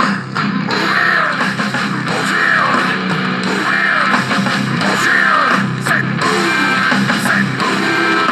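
Rock music with guitars and bass playing an instrumental passage, without singing.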